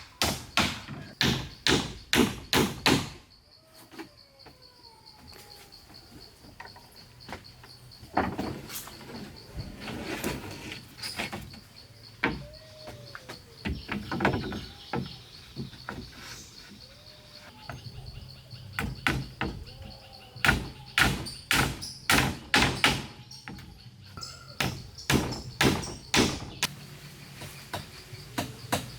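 Repeated blows of a tool striking wood, about two to three a second, in runs at the start, in the middle and through the last ten seconds. Under the blows runs an insect's steady high-pitched buzz.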